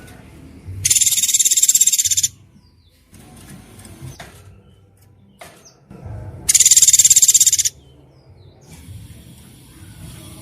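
Two bursts of a songbird's fast, high buzzing trill, a 'tembakan' burst call, each over a second long and starting and stopping abruptly, with faint chirps between them.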